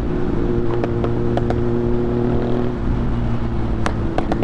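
Motorcycle engine running at a steady speed under wind noise, its pitch dipping slightly about three seconds in, with a few sharp clicks near the end.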